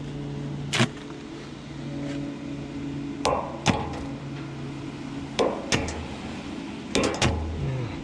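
Sharp metal-on-metal hammer strikes, mostly in quick pairs, about seven in all, over a steady low machine hum.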